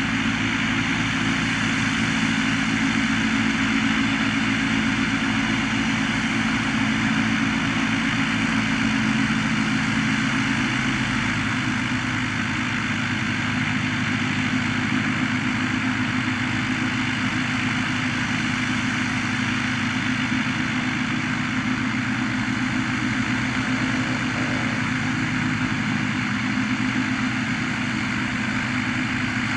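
Rotax 912 four-cylinder piston engine of a Blackshape Prime light aircraft running steadily at low power, with its deep tones shifting about eleven seconds in.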